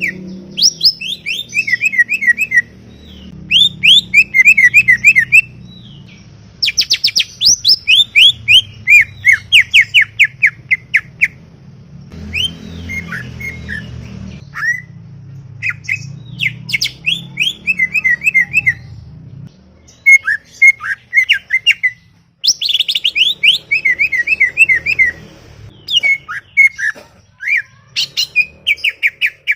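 Cucak ijo (green leafbird) singing in chattering bursts: rapid runs of sharp, down-slurred whistled notes, phrases of a second or two broken by short pauses.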